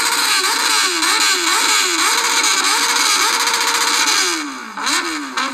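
Motorcycle engine being revved in quick repeated blips, its pitch climbing and dropping about twice a second; near the end the revs fall away in a long downward glide.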